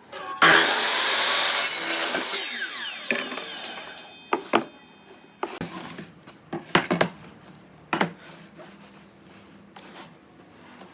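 Power saw cutting through wood with a loud burst, then the blade spinning down with a falling whine. Several sharp wooden knocks follow as pieces are handled.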